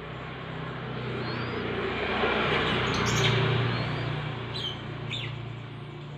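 A motor vehicle passes, its rumble swelling to a peak about three seconds in and then fading away. Birds chirp over it, with a few short rising and falling high notes.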